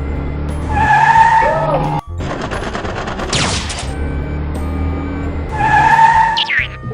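Cartoon vehicle sound effects over background music: a held horn-like tone about a second in and again near the end, with a rattling, skidding noise in between.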